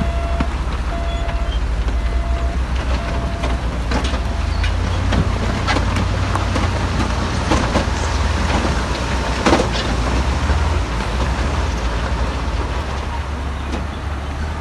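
Heavy earthmoving machine's diesel engine running under load, with repeated clanks and knocks of rock and steel, one louder knock about nine and a half seconds in. A reverse-alarm beep sounds once at the very start.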